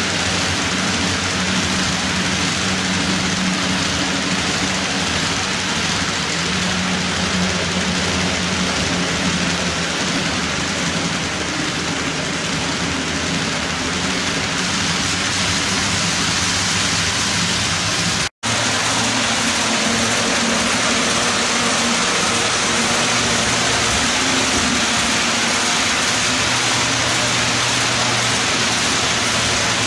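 HO-scale model freight train running: a long string of covered hoppers rolling on the rails while the locomotives' motors hum, a steady rushing noise with a low hum underneath. The sound cuts out for an instant about eighteen seconds in.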